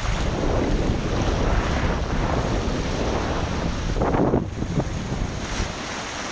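Wind buffeting the microphone over choppy, splashing water, with a louder splash about four seconds in.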